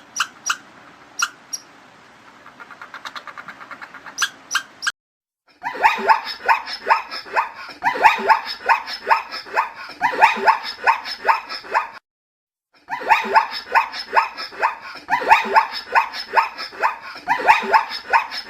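An animal making rapid, repeated barking calls in two long bouts with a short silence between them. Before these bouts come a few sharp clicks and a short, fast run of pulses.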